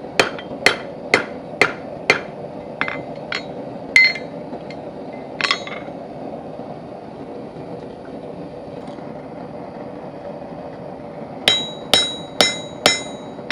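Hand hammer striking a steel hinge bar on an anvil, flattening it on the face after rounding it on the horn: about two ringing blows a second at first, a few lighter taps, a pause of several seconds, then four more ringing blows near the end, over a steady background hum.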